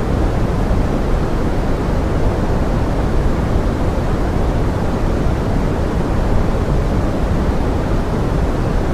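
Steady pink-noise forest rain ambience: an even, deep rushing hiss with no separate drops or changes.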